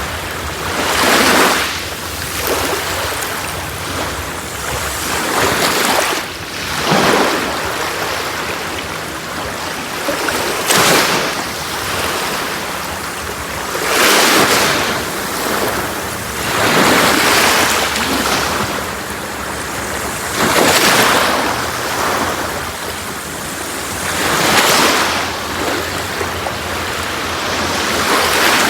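Sea waves breaking on a beach, one surge swelling and washing out every three to four seconds over a steady hiss of surf.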